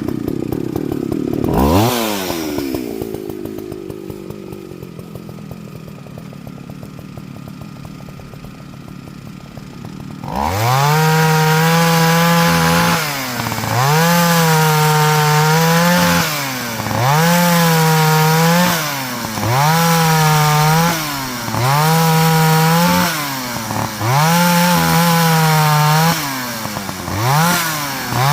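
Partner Farmer two-stroke chainsaw idling, blipped once about two seconds in. From about ten seconds in it runs at full throttle in about eight bursts of two seconds or so, dropping back between them, as it cuts up small wood.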